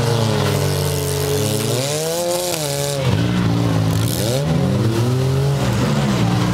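Engines of front-wheel-drive demolition derby cars revving, their pitch rising and falling several times over the steady drone of other engines running.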